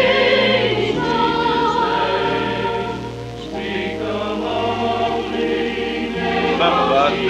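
Church choir singing in parts, holding sustained chords over a steady bass accompaniment, with the slightly dull sound of an old VHS recording.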